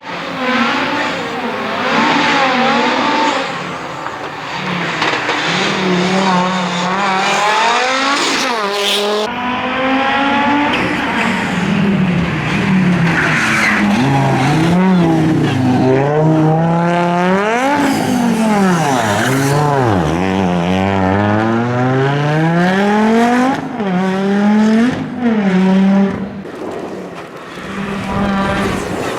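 Audi Quattro S1 rally car's engine at full race pace, the revs climbing and dropping over and over through the gear changes and braking.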